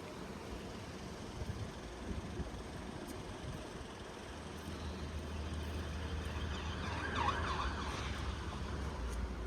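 A vehicle's low engine hum comes in about halfway through and grows steadily louder, as if drawing closer. About seven seconds in, a brief wavering high tone sounds over it for about a second.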